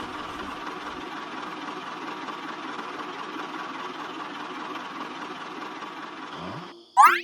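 A small motor running steadily, cutting off sharply near the end, followed by a quick rising whoosh.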